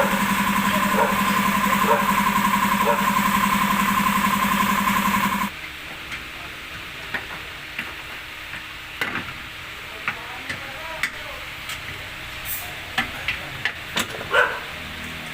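A motor-driven machine runs steadily, with a faint pulse about once a second, then cuts off abruptly about five seconds in. Scattered light clicks and knocks of hand work on metal parts follow.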